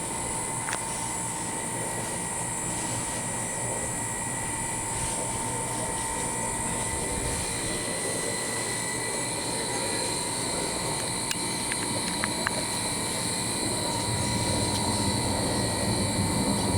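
Jet engines of a Boeing 737-400 airliner (CFM56 turbofans) flying over, a steady rumble that grows louder toward the end.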